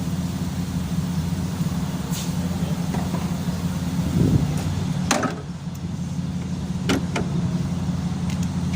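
A steady low mechanical hum, like a motor or engine running, with a few sharp clicks about five and seven seconds in.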